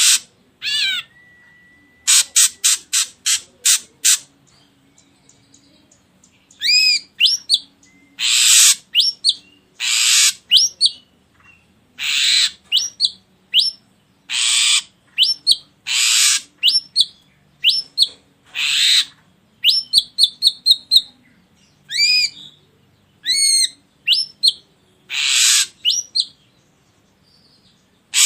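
Ashy drongo calling: harsh, raspy notes of about half a second alternate with clear whistled notes that glide up and down. Near the start there is a rapid run of about eight sharp notes, and a quick trill comes past the middle.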